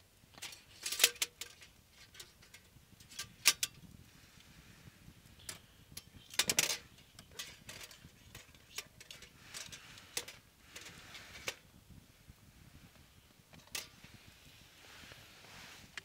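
Irregular sharp clinks and knocks of objects being handled, the loudest about a second in, about three and a half seconds in and near the middle, over a faint steady hiss.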